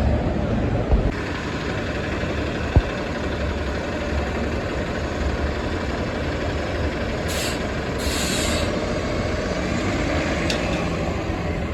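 Road traffic with heavy trucks running steadily. Two short bursts of hiss come about seven and eight seconds in, and a sharp click about three seconds in.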